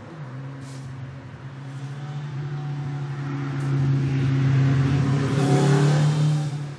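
A car driving by on a nearby road: a steady engine note that grows louder over several seconds, then falls away sharply near the end.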